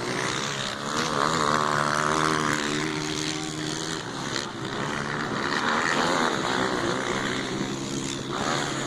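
Motocross dirt bike engines running at high revs, the pitch rising and falling as the throttle opens and closes, with a sharp change in engine note near the end.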